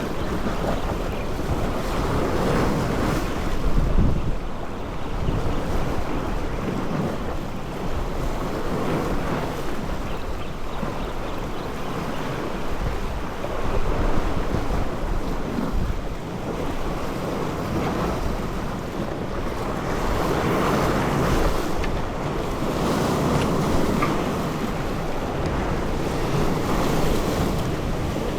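Wind buffeting the microphone over sea waves and water washing, rising and falling every few seconds.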